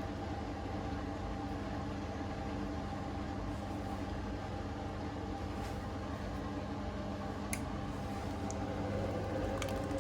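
Hoover Link washing machine's motor turning the drum slowly to distribute the load before its 1400 rpm spin, a steady hum. A couple of faint clicks come near the end.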